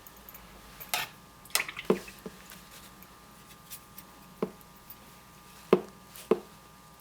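Light taps and knocks from handling watercolor painting tools, such as a brush clicking against the palette or water container, coming in a scattered string of about seven short hits.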